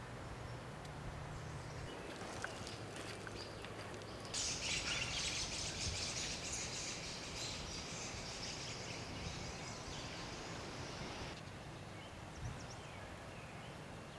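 Woodland campsite ambience, with a high, rough buzzing trill from a wild creature that starts about four seconds in and stops abruptly about seven seconds later.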